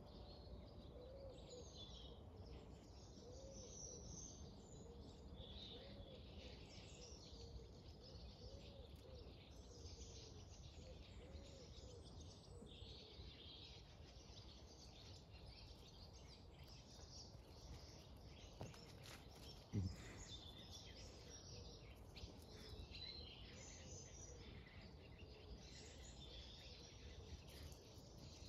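Near silence outdoors with faint wild birdsong, many small chirps throughout. A single sharp thump about two-thirds of the way through.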